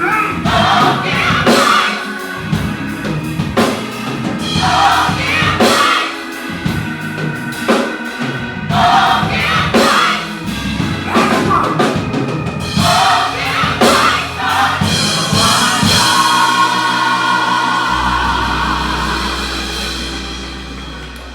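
Gospel choir singing with a drum kit and band. Near the end the music settles into a long held chord over a steady low note and fades down.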